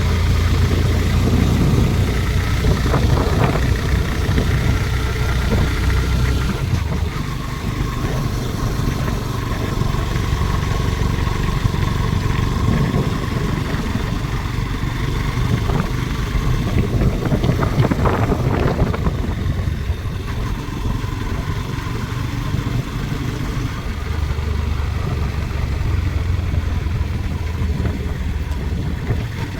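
A vehicle engine running steadily on the move. Its low hum drops back about seven seconds in and strengthens again near the end.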